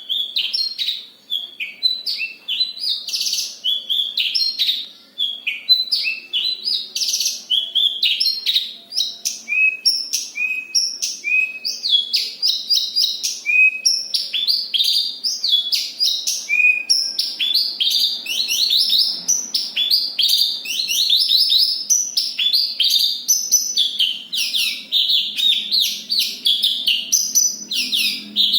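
Horsfield's bush lark (branjangan) singing without pause in a tight, rolling run of quick chirps and trills, the notes packing more closely together from about halfway through.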